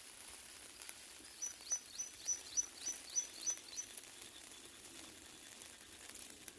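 A bird calling a quick run of about eight short, sharp chirps, each dropping in pitch, about three a second, over steady faint outdoor background noise with a thin high hiss.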